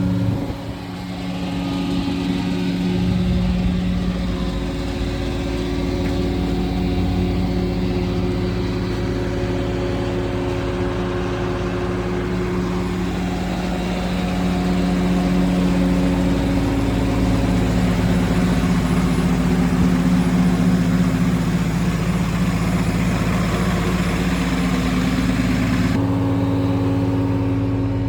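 Diesel engine of a Peterbilt 337 medium-duty truck running steadily, its speed shifting up and down a few times.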